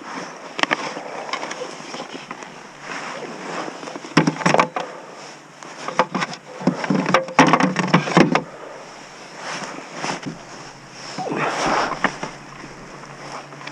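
Irregular knocks, bumps and rustling of handling on a kayak, a cluster of sharper knocks about halfway through, over faint water and wind noise.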